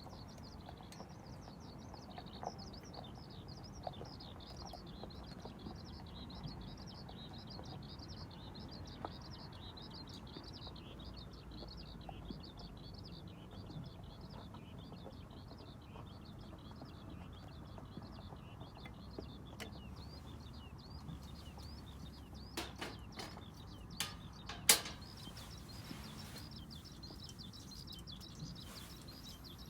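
Small birds chirping and twittering in continuous, rapidly repeated high notes over a low outdoor hum. A few sharp clicks and knocks come near the end, one much louder than the rest.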